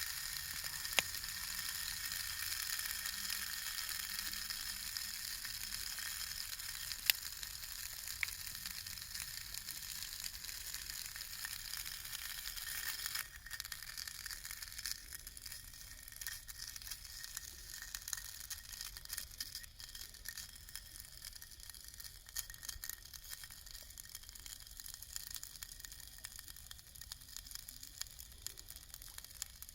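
Food sizzling and crackling in a hot pan, a steady hiss scattered with small pops. It drops back to a quieter sizzle about halfway through.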